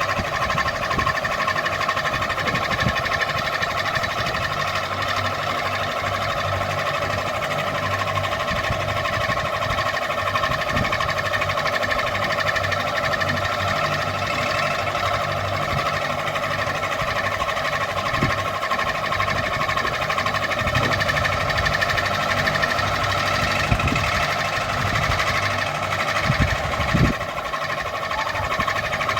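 Ceiling fan running steadily: a constant whirring hum with several held tones and an uneven low rumble beneath.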